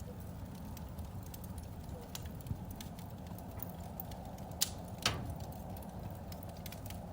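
Fire in a fireplace crackling: scattered small clicks over a steady low rumble, with two louder pops about half a second apart a little past the middle.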